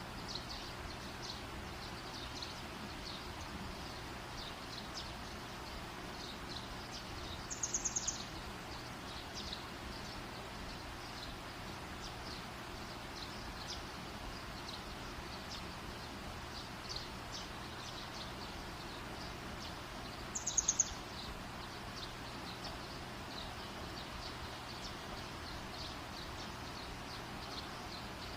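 Campfire burning with a steady low hiss and faint small ticks. Twice, about 8 and 20 seconds in, a short, high-pitched trilled chirp stands out above the fire.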